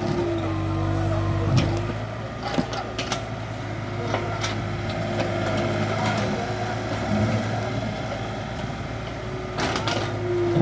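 Excavator's diesel engine running steadily under a held hydraulic whine, with scattered sharp knocks and clicks from the machine working.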